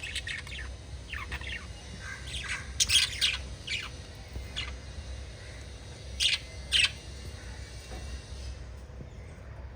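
A small flock of budgerigars chirping and squawking in short overlapping calls, loudest about three seconds in, with two sharp calls near the middle and fewer calls near the end.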